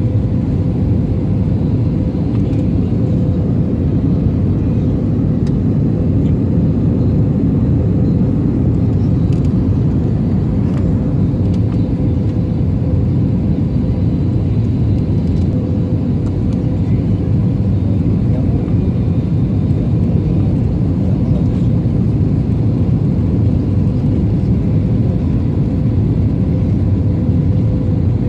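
Steady cabin noise inside an Airbus A321-231 airliner: a low, even rumble of engines and airflow with a faint steady hum through it.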